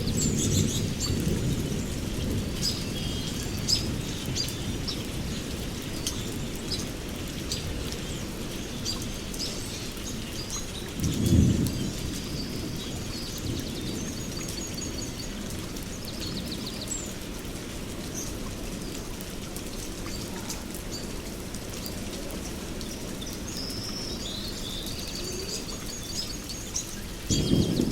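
Songbirds chirping and trilling, many short high calls, over a steady low rumble that swells briefly about eleven seconds in and again near the end.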